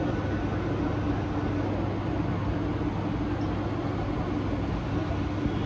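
Mumbai suburban local train, an electric multiple unit, giving a steady rumble with a constant low hum. It is heard from inside the coach at its open doorway.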